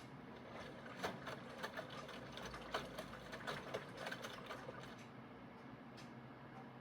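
Aidoo 1 kg mini washing machine running with a faint steady hum, and a run of irregular clicks and rattles lasting about four seconds from a second in.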